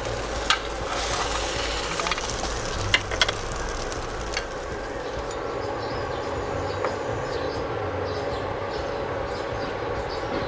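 Egg-soaked sandwich bread sizzling in butter on a nonstick grill pan, a steady frying hiss. A few sharp clicks of the spatula and metal tongs against the pan are heard, one about half a second in and two close together about three seconds in.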